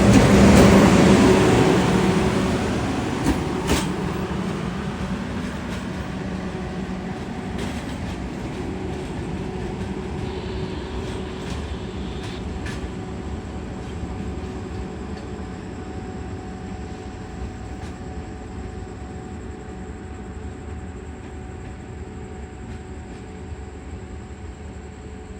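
Train running past and moving away, its rumble loudest at first and fading steadily into the distance, with a few faint clicks from the wheels.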